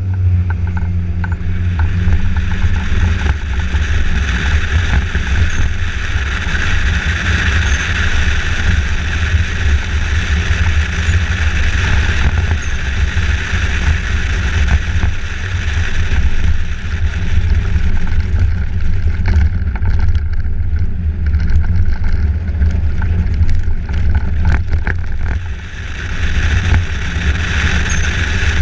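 Continuous loud, low rumble of a vehicle on the move, with a steady rushing noise over it. A few short knocks come about two-thirds of the way through.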